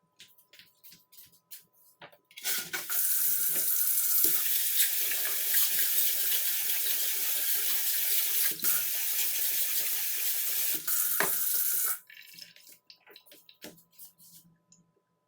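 Water running in a strong, steady stream, turned on about two seconds in and shut off suddenly about twelve seconds in, with faint clicks and knocks before and after.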